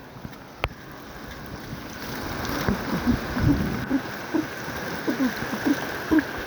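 Rushing floodwater in a rain-swollen channel: a steady rush that grows louder about two seconds in, with short gurgles and splashes through the second half. A single click comes near the start.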